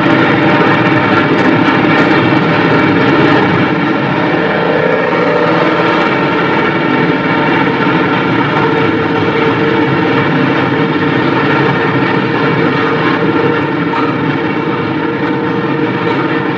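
Heavy freight train of flatcars loaded with military tanks rolling past: a loud, steady rumble of wheels on rails.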